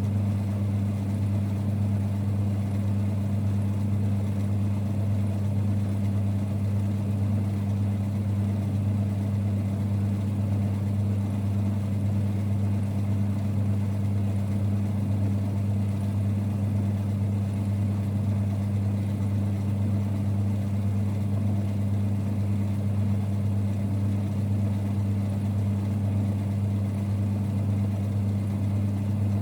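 1946 Boxford lathe running steadily: a constant low rumble with a strong low hum and a second tone above it, unchanging throughout.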